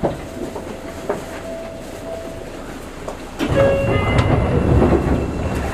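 Seibu 6000 series electric train running, heard from inside a passenger car, with single wheel clicks over rail joints. About three and a half seconds in the rumble and clatter get much louder, with high squealing tones over it.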